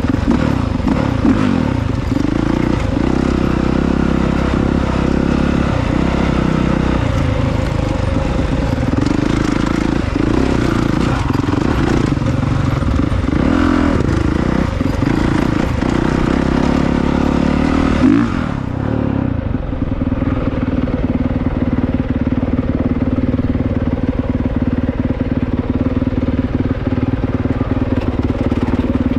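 Honda CRF450R's single-cylinder four-stroke engine revving up and down repeatedly as the dirt bike is ridden. About two-thirds of the way in it drops to a steady, even note.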